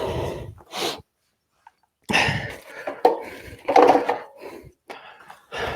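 Boxing gloves being pulled on and strapped: a few bursts of rasping and rustling, the longest lasting a couple of seconds in the middle.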